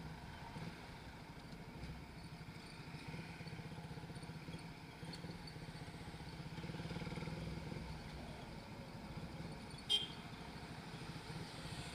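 Suzuki Raider 150 Fi's single-cylinder four-stroke engine running steadily as the motorcycle rides at low speed through town traffic. There is one short sharp tick about ten seconds in.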